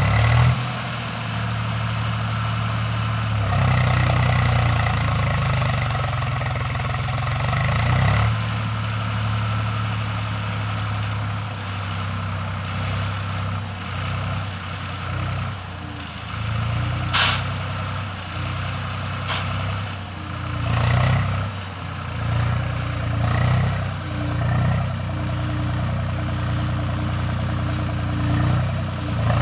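Tractor engine running, its low steady drone rising and falling in level. A single sharp click or knock sounds about halfway through.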